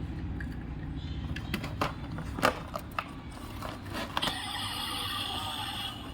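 Small plastic clicks and knocks of a toy car being handled, its doors and parts opened and snapped shut, several taps in the middle seconds. A faint steady high hum comes in near the end.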